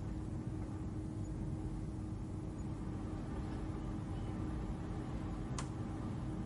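Steady low ambient hum with a faint held tone over it, a gentle 'space hum' drone. A single faint tick about five and a half seconds in.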